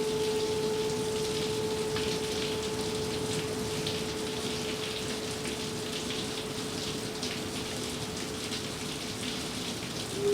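A gong's long ringing tone slowly dying away, a single steady pitch with a faint overtone, over the steady hiss of rain.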